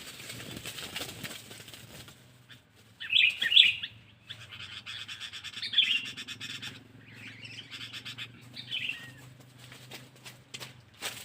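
Sooty-headed bulbul (kutilang) calling in short, bright chirping phrases, loudest about three seconds in and again near six and nine seconds, with rustling noise at the start.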